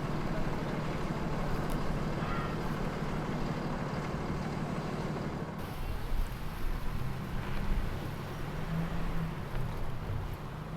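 Engines running at low revs, a steady low rumble. About halfway through the sound changes abruptly to a steadier hum, as at a cut to another shot.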